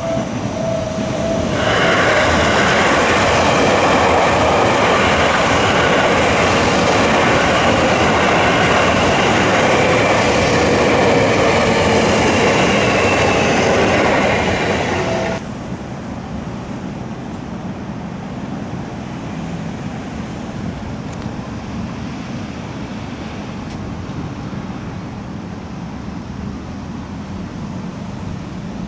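Seibu Ikebukuro Line electric train passing over the level crossing close by, its wheels and running gear loud for about fourteen seconds before the sound drops away suddenly. It is preceded by the crossing's electronic warning bell ringing in the first second or so, and followed by a quieter steady background hum.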